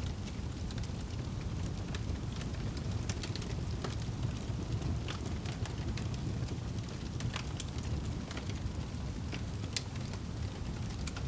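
Wood fire in a fireplace crackling, with frequent irregular sharp pops over a steady low rumble of the burning fire.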